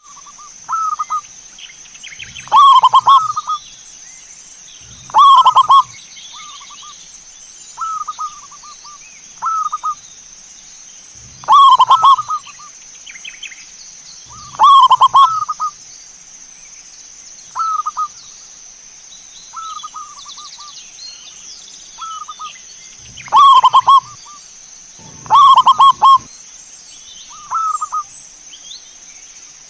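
Zebra doves (perkutut) cooing: short phrases of rapid, rolling coo notes repeated every one to three seconds, loud phrases alternating with softer ones. A steady high-pitched whine runs underneath.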